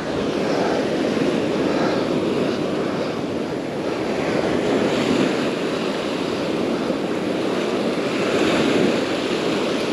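Steady rushing of Gulf surf breaking on the beach, mixed with wind buffeting the microphone.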